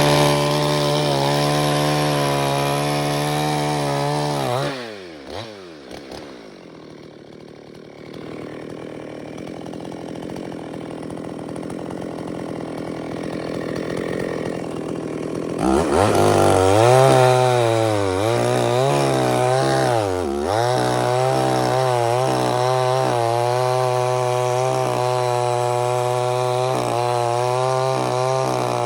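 Two-stroke chainsaw running at high revs, dropping back about five seconds in to a quieter, lower running. About sixteen seconds in it revs up again, its pitch dipping and recovering several times, then holds steady at high revs.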